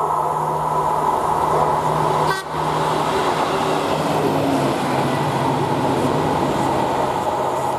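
Diesel train passing close by, its engines giving a loud steady drone with held pitched tones, briefly dipping about two and a half seconds in, then thinning into an even rolling rumble.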